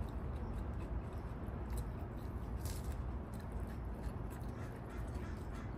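Biting and chewing of a crisp lettuce-and-beef salad: a few sharp, crunchy clicks over a steady low rumble.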